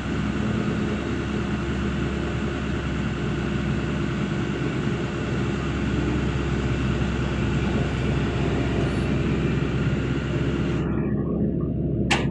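Heavy construction machine's engine running steadily, with a brief sharp click near the end.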